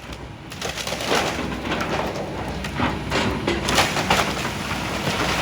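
Excavator demolishing a walkway: a dense run of cracking and crunching as roofing and concrete debris break and fall, over the steady rumble of the machine.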